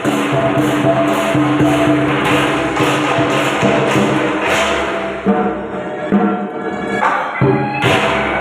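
Temple procession music: held melodic notes over quick, evenly spaced metallic percussion strokes, about three a second. About five seconds in the percussion stops, leaving the tune with a couple of sharp single hits.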